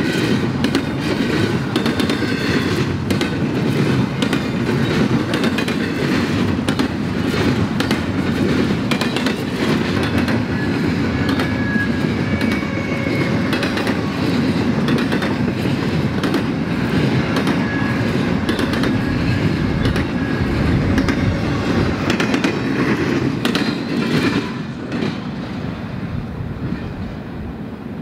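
Freight cars of a CSX intermodal train rolling past on steel rail, with the wheels clicking and clacking over the rail joints and a faint brief wheel squeal now and then. The rumble drops off about three-quarters of the way through.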